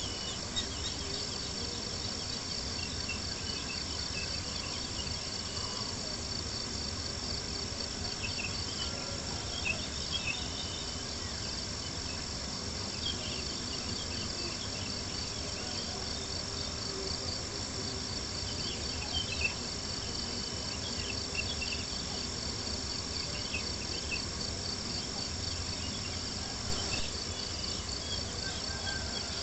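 A chorus of crickets chirping steadily in a continuous pulsing trill, with scattered faint ticks over it.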